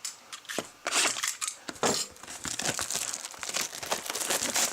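Plastic shrink wrap crinkling and tearing as a sealed hobby box of trading cards is unwrapped and opened, in a dense run of irregular crackles.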